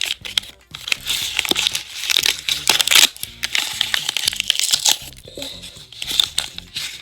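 A homemade blind bag being crinkled and torn open by hand: irregular crackly rustling that is busiest from about a second in until about five seconds in, over background music.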